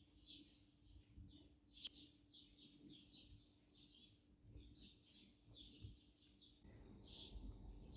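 Small birds chirping faintly, a rapid run of short high chirps at about three a second. A soft low rumble joins near the end.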